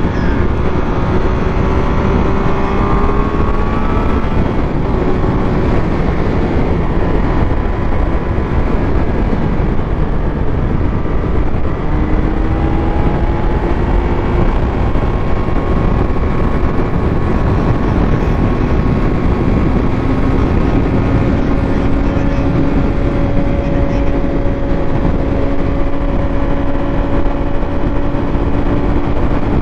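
Triumph Speed Triple 1200 RS inline-three engine running under way: its pitch climbs over the first few seconds, drops about twelve seconds in, then rises slowly again. Heavy wind rush on the microphone runs underneath throughout.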